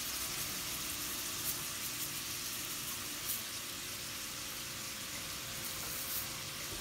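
Shrimp frying in olive oil in a skillet: a steady sizzle with a few small pops.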